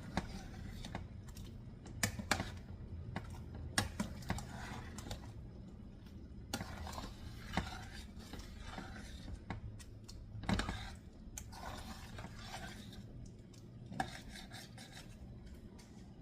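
A spoon and pot clinking and knocking now and then in irregular single knocks, over a low steady hum.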